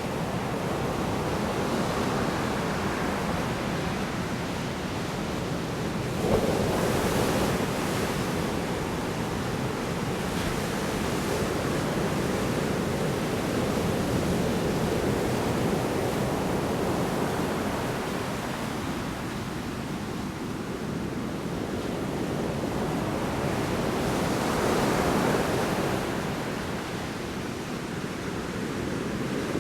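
Large storm waves breaking on the shore in a continuous wash, with a sudden louder crash about six seconds in and another swell near the end.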